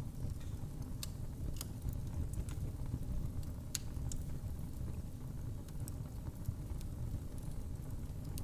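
Wood fire burning in a fireplace: a steady low rumble of the flames with irregular sharp crackles and pops of the burning logs, a few louder ones about a second in and again near four seconds.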